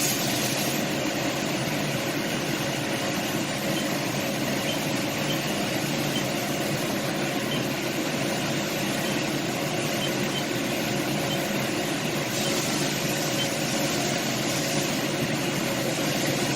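Haas DT-1 CNC drill/tap machining centre running under power: a steady machine hum with several held tones and a hiss over it. The hiss gets louder about twelve seconds in.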